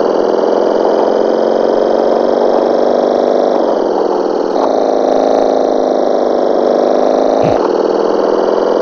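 Motorcycle engine running under way, a steady loud drone whose pitch steps down about four seconds in and shifts again twice later.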